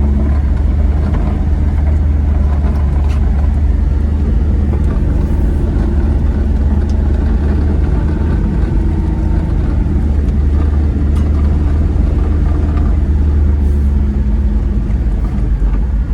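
Japanese mini pickup truck's small engine running steadily as it drives along, with road noise from the cab.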